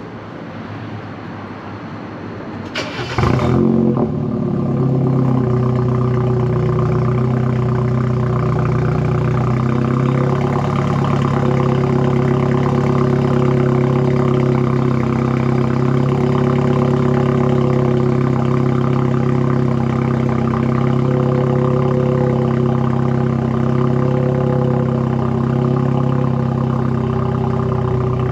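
BMW M2 Competition's twin-turbo straight-six starts about three seconds in with a brief loud flare, then settles into a steady idle.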